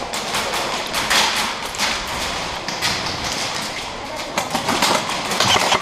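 Airsoft guns firing: an irregular clatter of sharp clicks and knocks, several a second.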